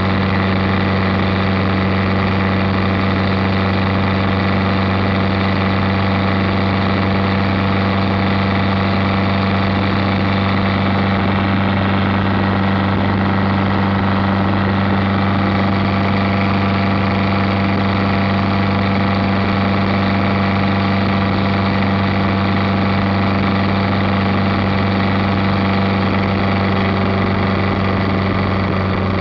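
Chevette-sourced 1.6-litre four-cylinder engine of a Super 7-style roadster running at a steady cruise, a constant even drone that holds one pitch throughout, with wind and road noise heard from the open cockpit.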